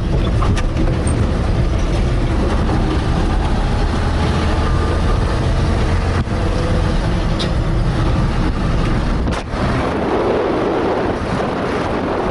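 1979 Chevrolet C10 pickup's six-cylinder engine running steadily as the truck is driven, a low drone with road noise. About nine and a half seconds in the engine note drops and a rushing wind noise takes over.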